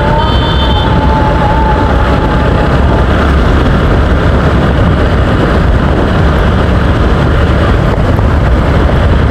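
Riding a TVS Apache RTR motorcycle: steady, heavy wind rush on the microphone mixed with engine and road noise.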